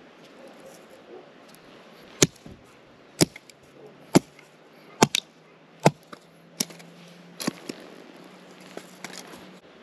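A series of sharp strikes, about eight of them, roughly a second apart, beginning about two seconds in, like blows of a hammer or an axe.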